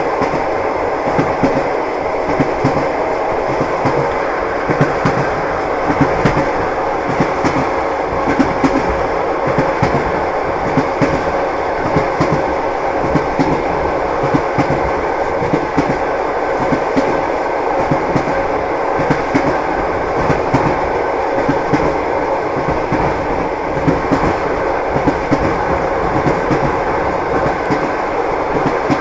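Passenger train running steadily, heard from inside the carriage: a constant running noise with the wheels clacking over the rail joints again and again.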